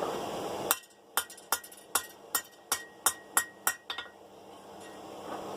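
Hammer tapping a forged steel bar on an anvil to straighten it: about ten light, ringing strikes at an even pace of roughly two to three a second, stopping about four seconds in.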